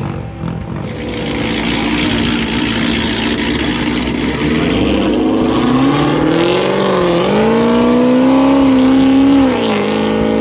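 Car engine accelerating hard: its note climbs, drops sharply at a gear change about seven seconds in, climbs again and holds high, then falls away near the end, over a loud rush of noise.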